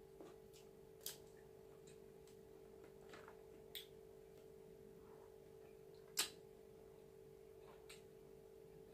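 Quiet close-up eating sounds: a handful of short, sharp mouth clicks and smacks while chewing food eaten by hand, the loudest about six seconds in, over a steady faint hum.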